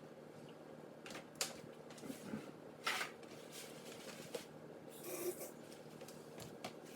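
Paper towels being pulled off and handled, faintly: a few sharp clicks and short rustles of paper.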